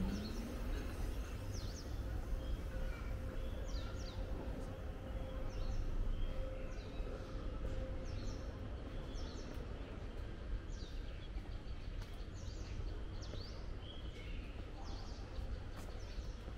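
Birds chirping, short high calls every second or so, over a steady low background rumble of outdoor noise.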